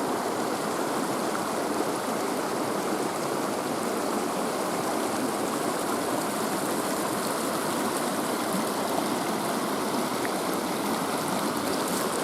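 Mountain stream running, a steady, even sound of flowing water.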